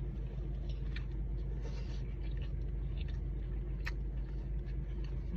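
Biting and chewing a crispy fried chicken sandwich, with a few faint crunches, over a steady low hum.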